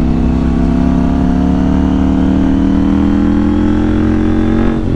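KTM 790 Duke's parallel-twin engine pulling hard through a gear, its pitch rising steadily, then dropping suddenly near the end as it shifts up.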